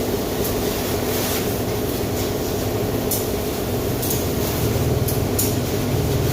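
Car wash machinery running with a steady drone, while water sprays in short irregular bursts of hiss.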